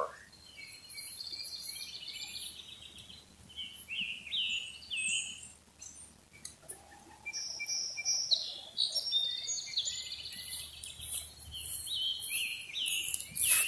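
Songbirds singing in the surrounding trees: several overlapping birds with rapid trills and short swooping chirps.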